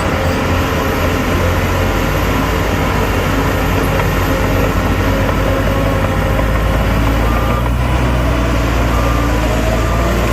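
Heavy diesel engines of earth-moving machines running steadily, with a deep low rumble that grows stronger about three-quarters of the way through. A few short high beeps sound near the end.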